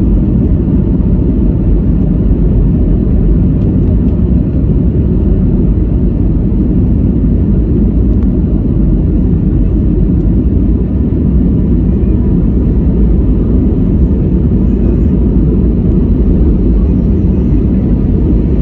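Steady, loud rumble of an airliner's engines and airflow heard from inside the passenger cabin in flight.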